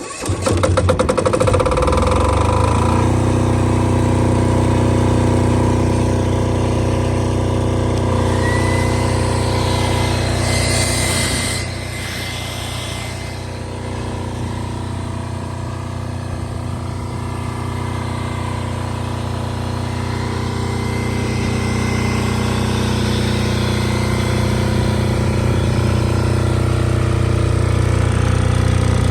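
Portable diesel generator starting up and settling into a steady run within about three seconds. A brief hiss comes about ten seconds in; the engine then runs a little quieter for a while before slowly climbing back.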